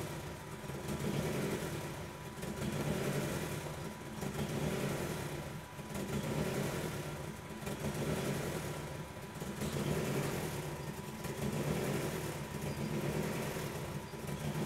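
Turbocharged Honda Civic four-cylinder engine running at idle, its level swelling and easing every second or two. It is running extremely rich, with the air-fuel ratio below what the wideband sensor can read, despite fuel being pulled from the map.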